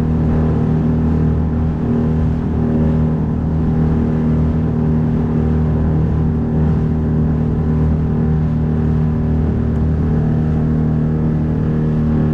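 A 9.8 hp outboard motor pushing a small boat at speed, running steadily at an even pitch.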